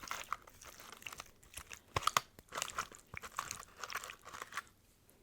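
Close-miked eating: irregular crisp crunching and crackling clicks as food is bitten and chewed, thinning out near the end.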